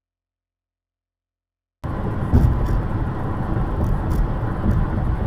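Dead silence, then a little under two seconds in a steady rumble of a moving car starts abruptly, with a few faint ticks over it.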